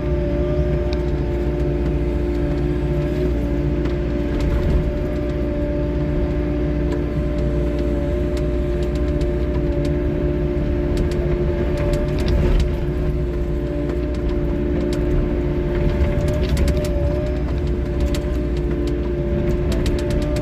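3W wheeled excavator's diesel engine and hydraulics running steadily under work, with a constant whine over a low rumble. Scattered clicks and knocks of the machine working come through, more of them near the end.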